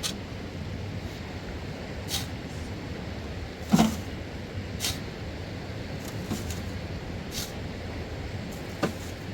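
Scattered sharp knocks and clicks, about seven at irregular intervals, the loudest a heavier thud a little before halfway, over a steady low rumble like wind on the microphone.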